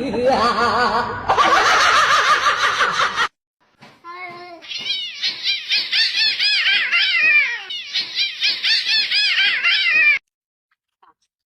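A cat meowing over and over, short rising-and-falling calls three or four a second, which stop abruptly about ten seconds in; before them comes a busier stretch of cat sounds.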